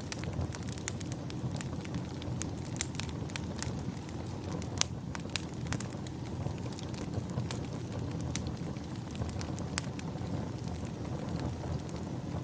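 Wood fire crackling in a fireplace: frequent irregular sharp pops and snaps over a steady low rush of flame, with a few louder pops.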